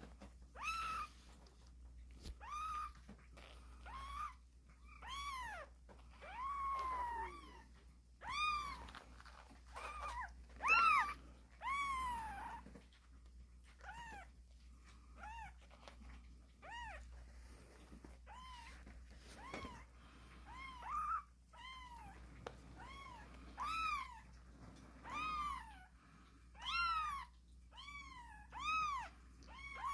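Young kittens meowing over and over: short, high mews that rise and fall, about one every one to two seconds, coming closer together near the end.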